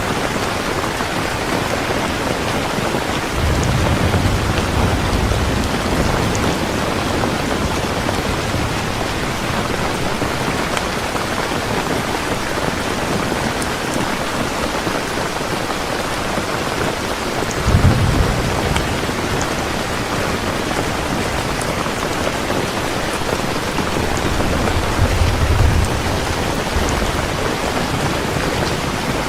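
Steady rain falling, an even hiss. Thunder rumbles low three times: a few seconds in, briefly about midway, and again near the end.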